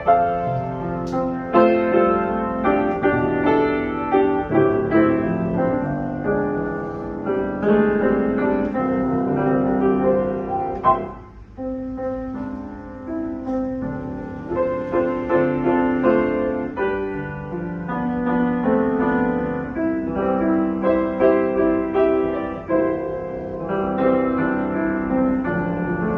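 A Yamaha G3E grand piano being played: sustained chords and a melody, with a short lull near the middle before the playing picks up again.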